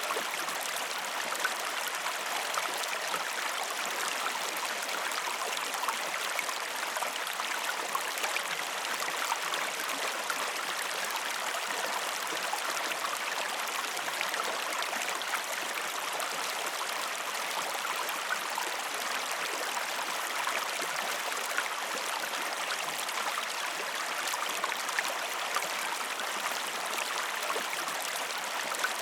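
A river or stream running steadily, an even rush of water with small splashing flecks and no deep rumble.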